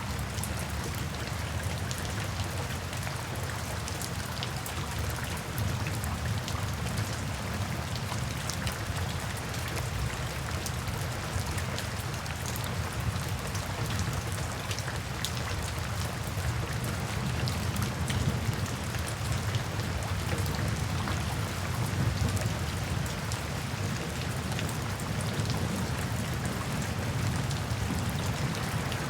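Steady rain falling, with many fine drops pattering on a surface over a low, even rumble.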